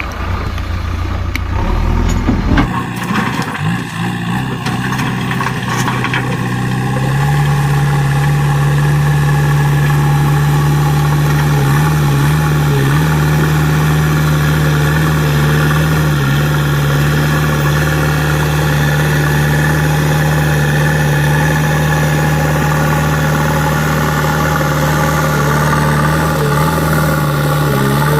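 JCB backhoe loader's diesel engine running, uneven with a few knocks for the first several seconds, then rising to a steady, louder drone from about seven seconds in.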